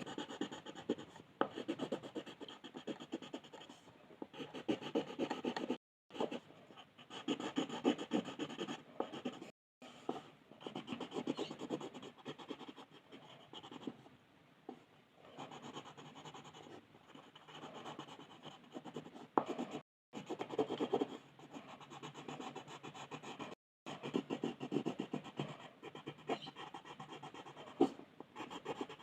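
Colour pencil scratching and rubbing on paper in quick back-and-forth shading strokes. The strokes come in runs of a second or two with short pauses, and the sound is broken a few times by brief drops to dead silence.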